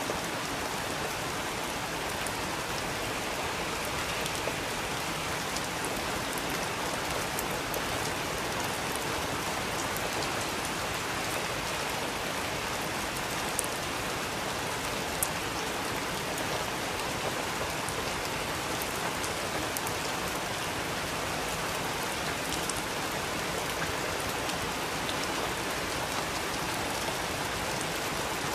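Steady rainfall, an even hiss of rain on a surface with scattered individual drop ticks, a couple of them a little louder about halfway through.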